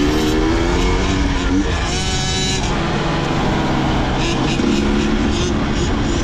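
Two-stroke dirt bike engine running, its pitch rising and falling as the throttle is worked.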